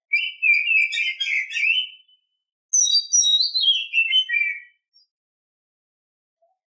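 Female oriental magpie-robin singing two quick phrases of clear, varied whistled notes, the second starting high and stepping downward.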